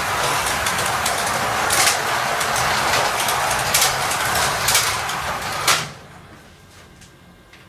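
Carrera Digital slot cars lapping the track: a steady whir of small electric motors and tyres on the plastic track, with several sharp clicks. The whir cuts off suddenly near the end as the cars stop, leaving a faint hum.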